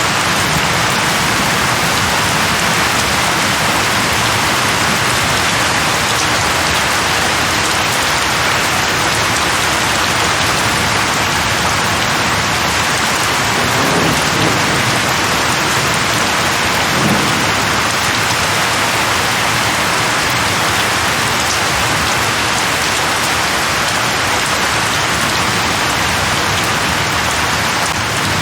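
Steady heavy rain falling, an even hiss of drops on surfaces, with soft low rumbles about halfway through that may be distant thunder.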